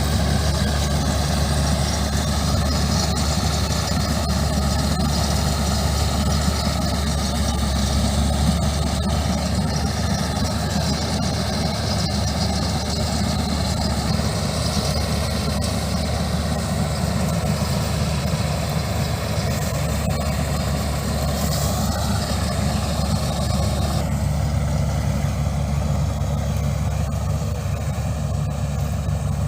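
Combine harvester running steadily while harvesting wheat: a heavy engine drone with an even machine noise over it.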